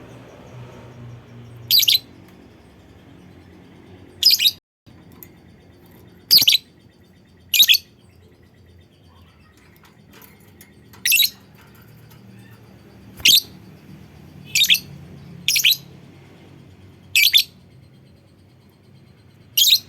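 Lovebird giving about ten short, shrill calls, each under half a second, spaced irregularly one to three seconds apart.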